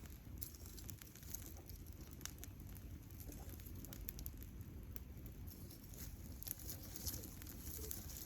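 Wood campfire crackling: irregular small pops and ticks, a few louder ones near the end, over a steady low rumble.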